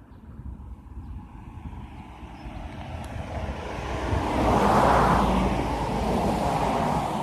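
A car driving past: the rush of its tyres and engine swells, peaks about five seconds in, then fades away.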